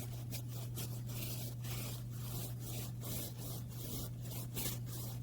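Paintbrush stroking back and forth over the wooden hot tub surround, a rhythmic rasp of about three strokes a second. A steady low hum runs underneath.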